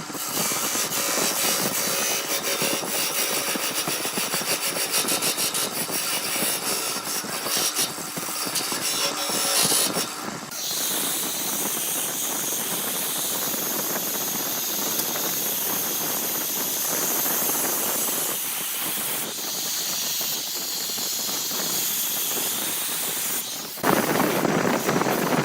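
Woodworking machinery cutting wood: a dense rasping noise with a fast fine ticking for the first ten seconds, then a steadier hiss, then a louder, fuller cutting noise near the end.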